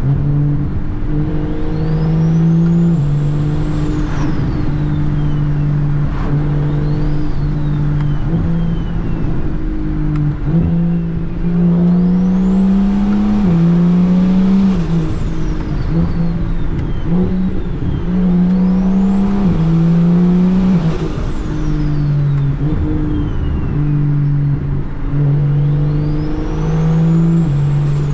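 Single-turbo BMW E92 335i's N54 inline-six pulling hard through the gears several times, the engine note stepping at each shift. A high turbo whistle rises with each pull and falls away as the driver lifts, about four times.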